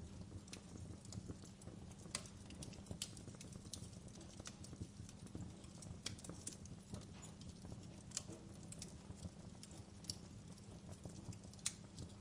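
Wood fire crackling: irregular snaps and pops over a low, steady rumble, with a few sharper pops about two and three seconds in and again near the end.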